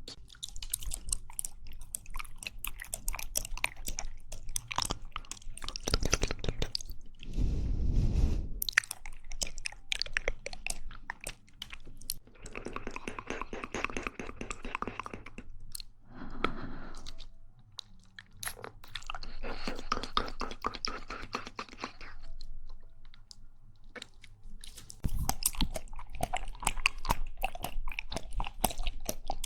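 Close-miked mouth sounds of someone chewing jelly: many quick wet clicks and smacks, with a few longer, denser stretches in the middle.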